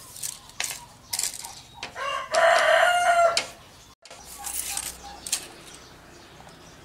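A rooster crowing once, one call of about a second and a half, with scattered short knocks around it.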